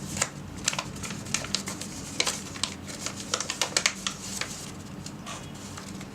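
A folded square of origami paper being opened out and handled: a string of irregular sharp paper crackles and taps that thin out near the end, over a faint low steady hum.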